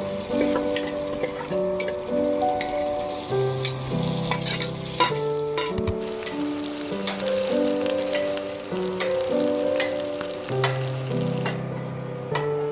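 Food sizzling as it fries in hot oil in a pan, with scattered clicks of a utensil stirring against the pan. Soft background music with held notes plays underneath.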